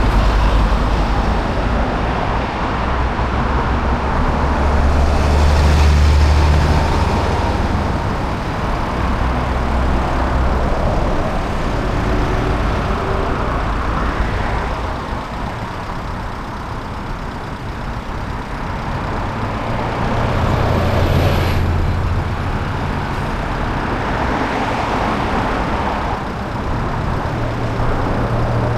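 Road and traffic noise heard from a camera on the roof of a moving car: a steady rush with a deep rumble that swells a few seconds in and again about two-thirds through.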